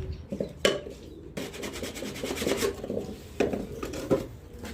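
Wooden nest-box parts being handled and shifted: scraping and rubbing, with three sharp knocks spread through it.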